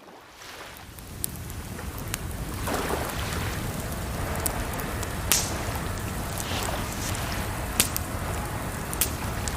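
Wood fire crackling, with sharp scattered pops over a steady rushing of water, fading in after a brief silence.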